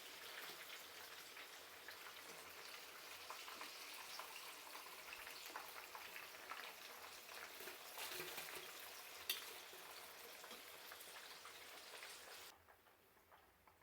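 Hot oil sizzling and crackling with many fine pops as breaded chicken cheese balls deep-fry. The sizzle cuts off sharply near the end.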